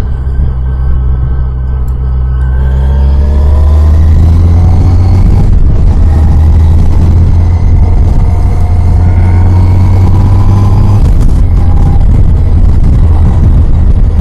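Yamaha FJR1300's inline-four engine pulling away, its pitch rising over a couple of seconds before it settles into a steady loud drone at road speed.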